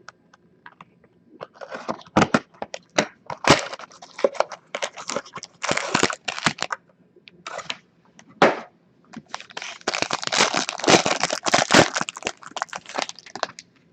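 Packaging of a box of hockey trading cards being opened by hand: wrapper crinkling and tearing, with sharp clicks and rustles. It comes in irregular bursts and is busiest in the second half.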